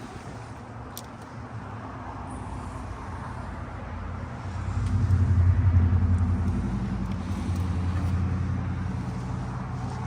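Motor vehicle engine running, a low steady hum that comes up louder about halfway through and then holds on.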